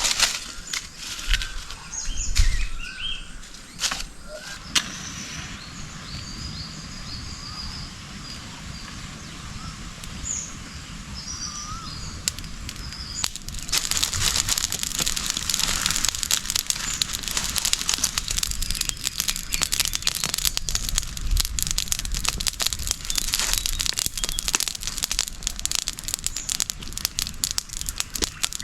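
Birds chirping and calling over a forest background, with a few sharp knocks in the first few seconds. About halfway through, a dense crackling sizzle starts and keeps going: eggs frying on a banana leaf.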